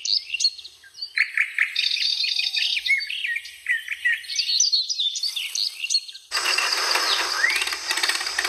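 Small birds chirping, many quick high calls one after another. About six seconds in, a loud, steady mechanical rattle starts suddenly and covers them.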